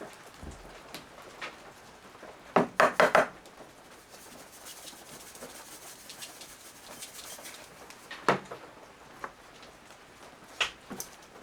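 Cookware and utensils being handled while starting a meal: a quick run of about four sharp knocks and clatters about two and a half seconds in, then single knocks near the middle and near the end.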